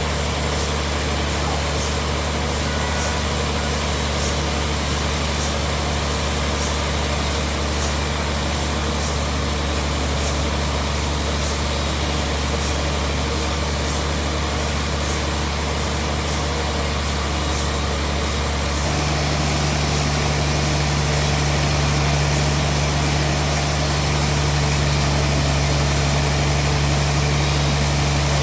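Sawmill bandsaw machinery running with a steady, deep hum and faint regular ticking. About two-thirds of the way through, the hum shifts and gets a little louder and the ticking stops.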